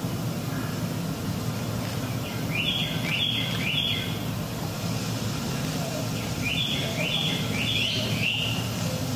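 A bird calling in two runs of three or four quick chirps, about two and a half and six and a half seconds in, over a steady low rumble.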